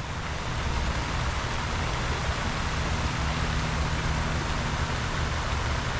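Steady outdoor noise: an even hiss with a low rumble underneath, with no distinct events.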